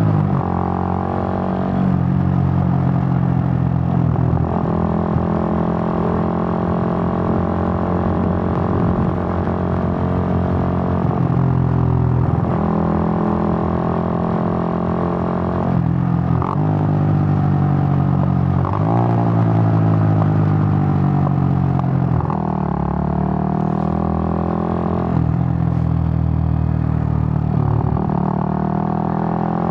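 Suzuki GN125's single-cylinder four-stroke engine running while the motorcycle is ridden, its pitch rising and falling with several abrupt steps.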